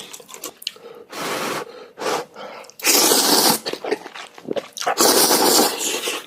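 Noodles being slurped in three long, hissing bursts, with small mouth clicks and chewing smacks between them.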